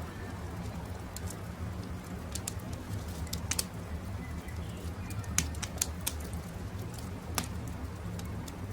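Wood campfire crackling: scattered sharp pops and snaps over a low, steady rumble, the loudest pop about halfway through.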